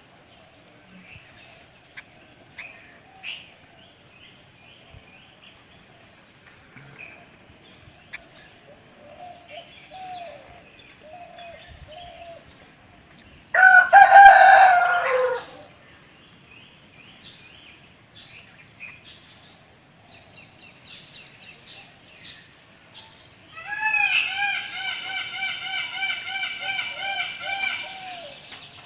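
Faint bird chirps throughout, broken by a loud rooster crow lasting about two seconds halfway through, which drops in pitch at its end. Near the end comes another loud, long, wavering call of about five seconds.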